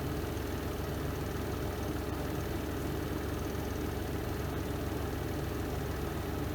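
Spin drum of a Renova semi-automatic twin-tub washing machine running at speed in its spin cycle: a steady, even motor drone.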